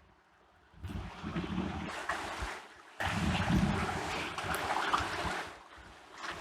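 Wind buffeting the microphone over waves breaking on the sea shore, a rumbling rush of noise. It starts abruptly about a second in, jumps to a louder stretch at about three seconds, and dies away near the end.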